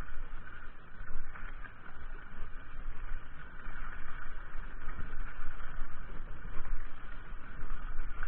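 Mountain bike being ridden along a trail: wind rushing over the microphone with tyre noise, a steady rough noise with a deep rumble that rises and falls.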